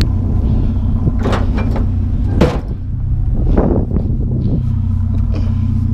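A vehicle engine idling with a steady low hum, with scattered knocks and scrapes as objects are loaded into a truck.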